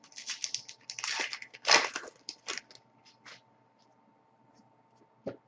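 Foil trading-card pack wrapper crinkling and tearing as a new pack is opened, a run of short crackles over the first three seconds or so.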